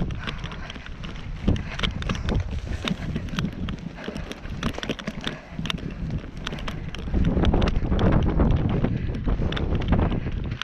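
Strong wind buffeting the microphone in a low rumble, gusting harder about seven seconds in, with many sharp clicks and taps throughout.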